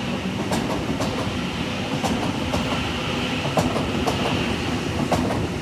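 Electric passenger train running alongside the platform: a steady rumble and hiss of wheels on rail, with irregular sharp clicks as the wheels pass over rail joints.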